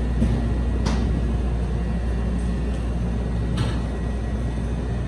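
Steady low rumble and hum of a stopped CTA rail car standing at the platform, with a couple of short sharp knocks about a second in and again about three and a half seconds in.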